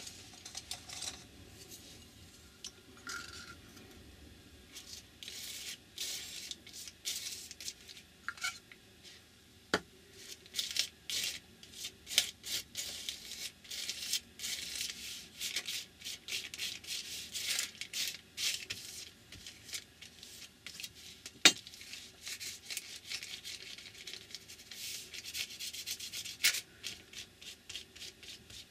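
Gesso being brushed onto a paper page: many short, irregular scratchy strokes, thicker from about five seconds in, with two sharp taps, the louder one about two-thirds of the way through.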